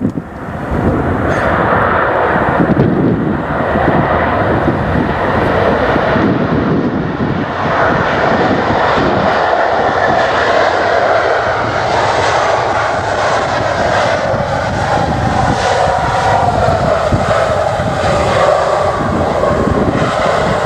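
Airliner engines running loud and steady as the aircraft passes, with a tone that slowly falls in the second half. Wind buffets the microphone underneath.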